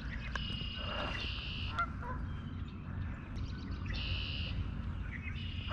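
A bird calling: a drawn-out, high, buzzy call about half a second in, another about four seconds in and a short one near the end, over a low steady rumble of wind or handling.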